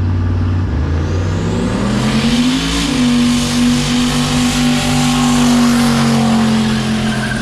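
Car engine revving up about a second in and then held at high revs for several seconds as the car leaves hard.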